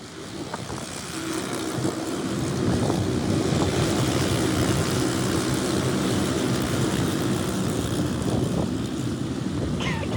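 Racing go-kart engine running, growing louder over the first couple of seconds and then holding a steady pitch.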